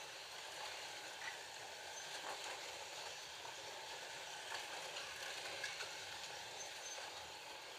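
FLY Classic slot cars with 19K electric motors running laps on the track: a steady whirring hiss of small motors and tyres, with a few faint clicks.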